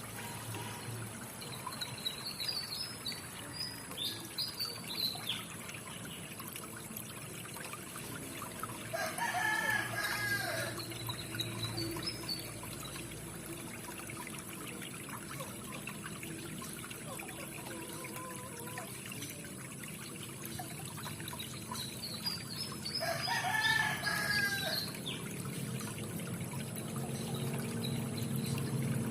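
A rooster crowing twice, each crow lasting about a second and a half, with small birds chirping high and thin in between. Under it runs a steady rushing hiss, like trickling water.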